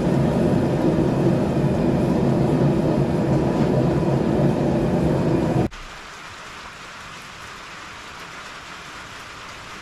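A forge running with a loud, steady roar while a Damascus knife blade is heated to quenching temperature for thermocycling. About halfway through it cuts off abruptly to a much quieter steady hiss.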